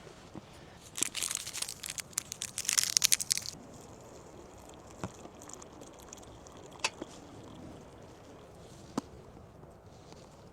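Dense crunching and crackling for about two and a half seconds, then a few single sharp snaps a couple of seconds apart.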